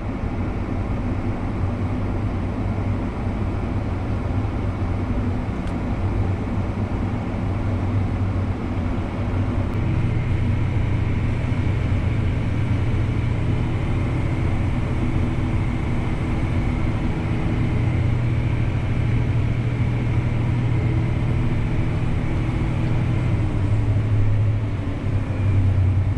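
Tractor engine running steadily under load, heard from inside the cab, with a slight rise in its note about ten seconds in.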